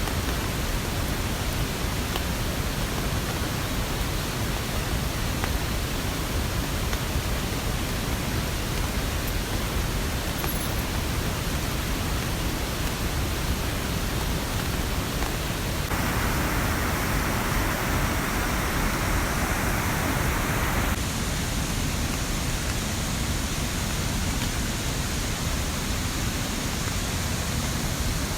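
Steady rushing of water in a rainy mountain setting, with a brighter, slightly louder stretch of about five seconds past the middle.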